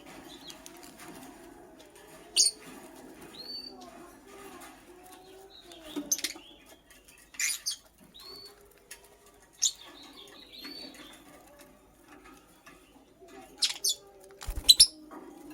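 Lovebird giving short, sharp, high chirps every second or few, with softer arched call notes in between. A cluster of loud chirps and a low thump come near the end.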